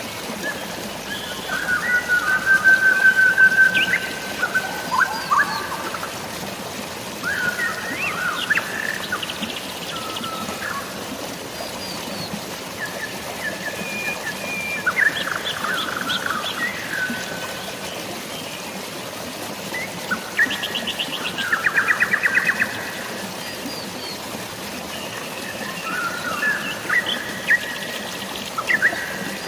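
Several birds chirping and whistling on and off, with a held whistle early and a rapid trill about two-thirds of the way through, over a steady hiss of rain and flowing water.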